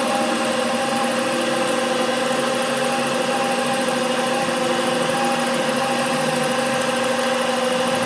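Workshop machine running at a steady speed, a constant hum.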